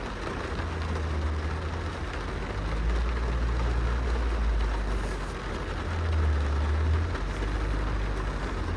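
Rain pattering on a car's glass window, heard from inside the car, with a steady low rumble underneath.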